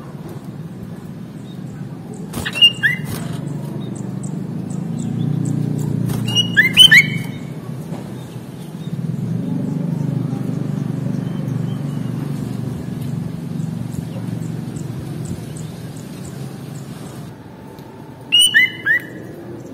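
Sooty-headed bulbul (kutilang) giving short, loud bursts of call notes three times: about two and a half seconds in, around seven seconds, and near the end. A steady low hum runs underneath.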